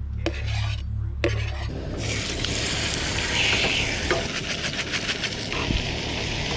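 Beef and vegetables sizzling in a frying pan, with a few short stirring scrapes at first; the sizzle swells to a loud steady hiss about two seconds in.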